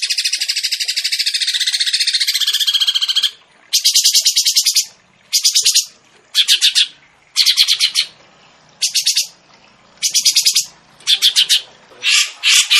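Songbird masteran recording: a cage songbird's very fast, high rattling trill runs unbroken for about three seconds, then comes in short rapid bursts about once a second.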